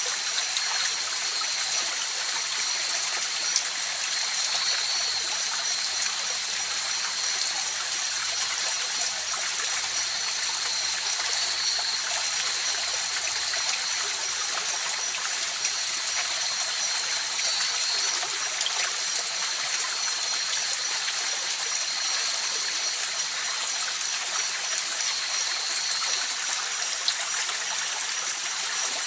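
River water flowing steadily in a continuous rushing hiss, with a thin, steady high-pitched drone of night insects over it.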